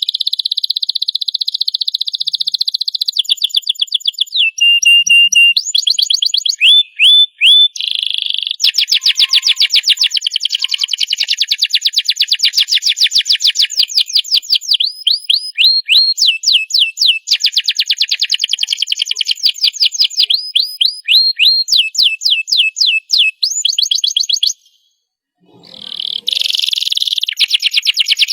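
Domestic canary singing a long continuous song of fast high-pitched trills and rapidly repeated rising notes, breaking off for about a second near the end before starting up again.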